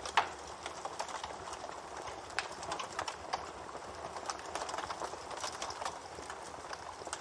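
Wood fire crackling, with a steady hiss and irregular sharp pops, the loudest just after the start.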